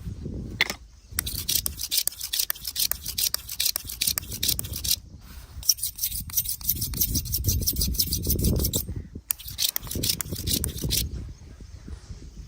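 Straight razor scraping through hair and stubble in rapid crackling strokes, in three runs that pause briefly about five seconds in and again about nine seconds in, over a low rumble.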